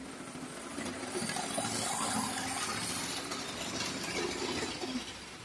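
Tyco HO-scale model diesel locomotive running along the track, its motor and wheels giving a rough running noise. The noise grows louder about a second in as it passes close, then falls away near the end. The locomotive is still wearing in, its traction tires seating.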